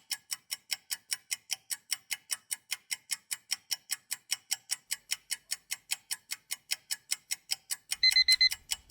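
Countdown timer sound effect: a clock ticking about four times a second, then an alarm clock beeping in a quick run of high beeps near the end, signalling that the time to answer is up.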